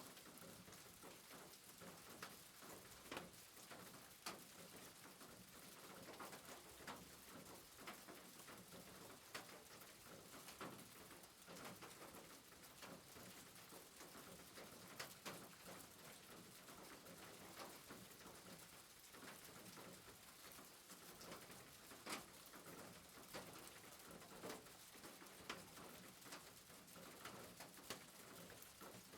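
Faint soft rain: a steady hiss with scattered drip ticks, irregular and about one or two a second.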